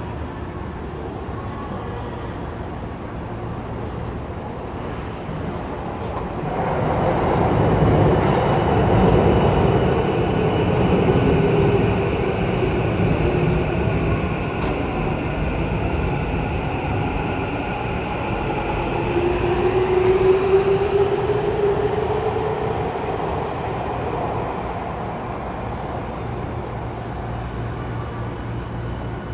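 Saitama Railway 2000 series electric train heard from inside the car while running: wheel-on-rail rumble with motor tones. It grows louder about six seconds in, a tone rises in pitch around twenty seconds in, and it settles to a quieter steady hum near the end.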